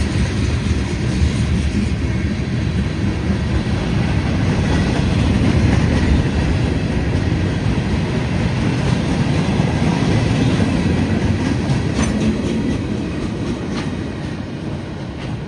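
Freight train cars rolling past steadily, wheels clicking over the rail joints, the sound fading toward the end as the train nears its tail.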